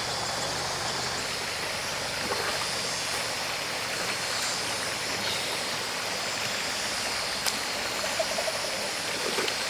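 Mountain stream water running steadily, with a single sharp click about three quarters of the way through.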